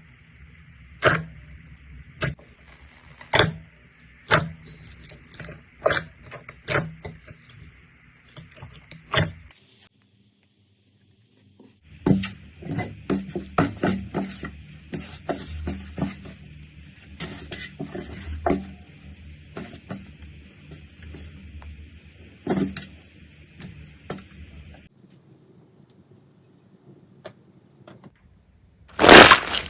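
Slime being squeezed and handled close to the microphone, giving irregular sharp pops and clicks. The pops stop briefly about a third of the way in, then return more densely.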